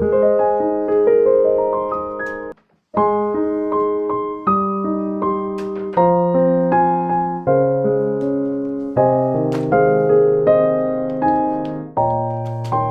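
Background piano music playing soft chords and melody notes, with a short break of silence about two and a half seconds in before it resumes.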